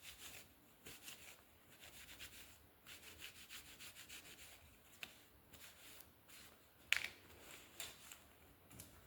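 Faint, quick rubbing strokes on a small leather wallet, with one sharp click about seven seconds in.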